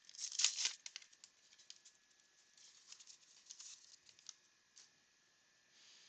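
Baseball card pack being torn open and cards handled: a quick cluster of crackling tears in the first second, then light ticks and rustles as the cards are flicked through.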